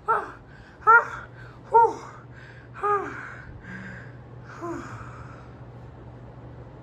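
Short squawking calls, each bending up and then down in pitch, repeated about five times roughly a second apart, with the last ones weaker, over a low steady hum.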